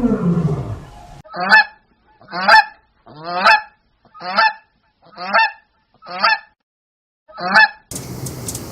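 A goose honking: seven short, separate honks, about one a second.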